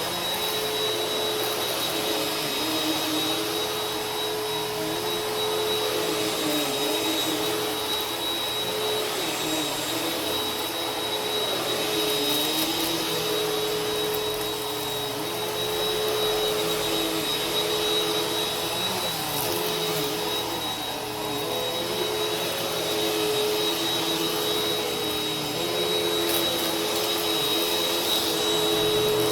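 Vacuum cleaner running steadily, its motor holding a constant whine over a broad rush of airflow, with a slightly wavering lower tone.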